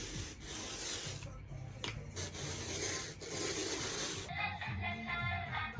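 Rubbing, rustling noise in several stretches with short breaks, like something being handled or rubbed; background music comes in about four seconds in.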